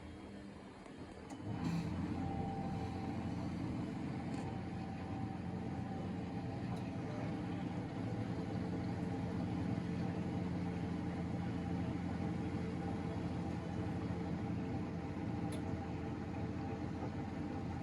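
Miele Novotronic W913 washing machine in its drain-and-spin phase after the second rinse: a quiet steady hum, then about a second and a half in the drum motor starts and the machine runs with a steady hum and rumble.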